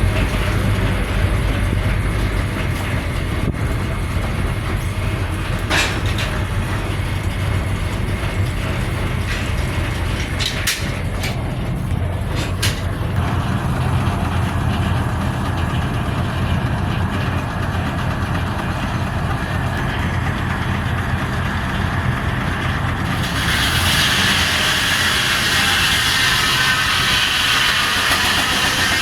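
Sawmill machinery running with a steady drone and a few sharp knocks near the middle. A little past two-thirds of the way through, a brighter, louder high-pitched noise sets in.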